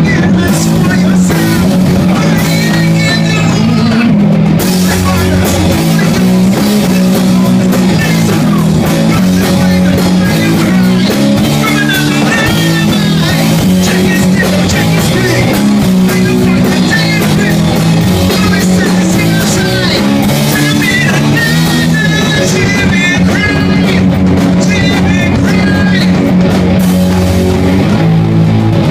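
Loud rock music with electric guitar and a drum kit, and a singing voice over it.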